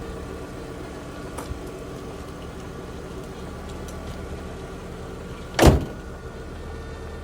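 Volvo V70XC engine idling steadily on a cold start, with a single short, loud thump about five and a half seconds in.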